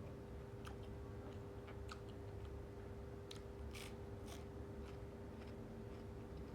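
A person chewing and eating a spicy instant-noodle seafood salad, with scattered small wet clicks and a few crisper bites around the middle, over a steady faint hum.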